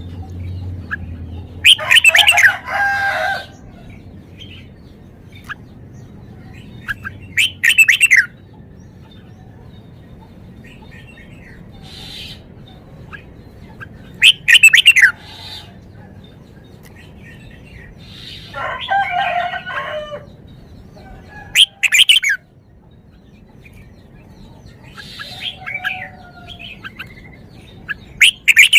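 Red-whiskered bulbul singing short, bright whistled phrases, about seven of them, each a second or so long, with pauses of a few seconds between.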